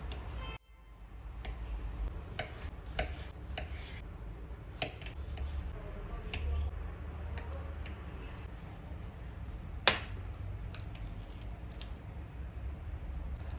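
Scattered light clicks and taps from small objects being handled, with one sharp click about ten seconds in, over a low steady hum.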